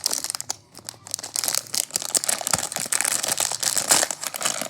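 Toy packaging being crinkled and handled as it is opened: a dense, irregular crackling that goes on throughout.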